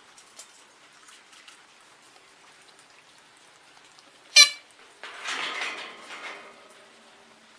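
A caged bird gives one short, sharp squeak about halfway through, followed by a second or so of rustling and scuffling, the sound of birds moving about in the cage.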